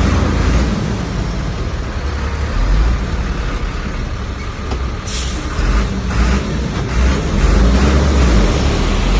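Bulldozer's diesel engine running hard with a deep, surging rumble as it pushes earth and stone, with a brief higher rasp about five seconds in.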